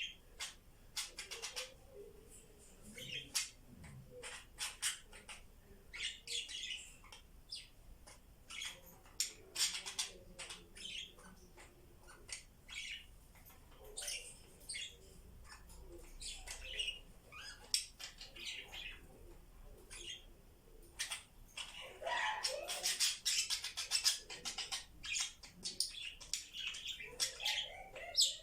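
Pet budgies chattering: scattered chirps, clicks and short squawks, becoming busier and louder about three-quarters of the way through.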